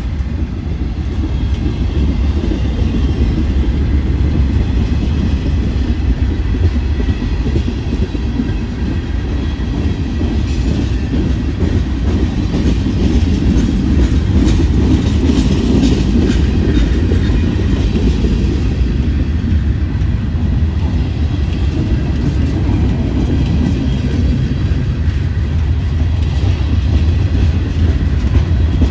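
Mixed freight train cars rolling past, a steady rumble of steel wheels on the rails, a little louder around the middle.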